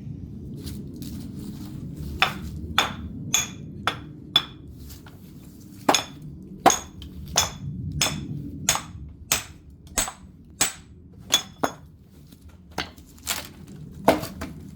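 Firewood being split by hand: a steady series of sharp strikes, about one and a half a second, each with a short metallic ring, with a brief pause a little before halfway.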